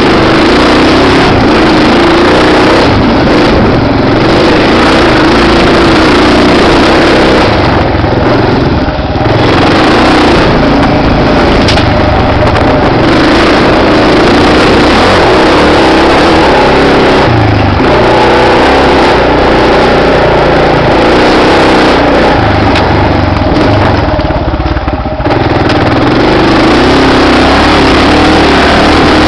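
Suzuki DR650SE's single-cylinder four-stroke engine running loud under load as it climbs a dirt hill, its pitch rising and falling with the throttle and easing off briefly twice.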